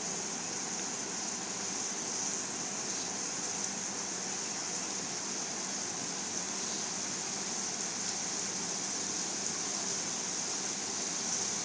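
Blended spice paste thinned with coconut milk sizzling and bubbling steadily in a wok as it is fried down until the oil separates.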